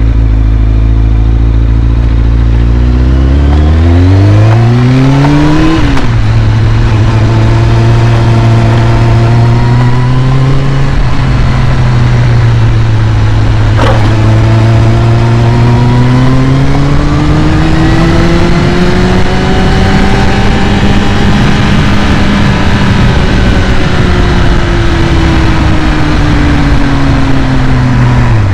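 Kawasaki ZX-6R's carbureted inline-four engine running: it revs up once and drops back, then holds a raised, steady speed that slowly climbs and eases back before falling to a low idle near the end. A single sharp click about halfway through.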